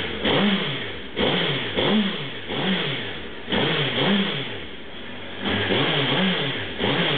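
2009 Suzuki Hayabusa's 1340 cc inline-four engine being revved through its stock exhaust cans. The throttle is blipped over and over, each rev rising and falling back, about once a second.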